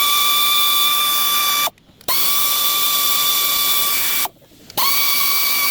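Power tool running in three bursts, a steady high whine with a hiss that spins up at each start and winds down at each stop, pausing briefly twice.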